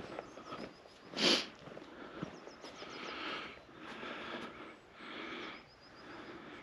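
A person sniffing once, sharply and loudly, about a second in, then a run of softer, evenly spaced swishing sounds of someone walking.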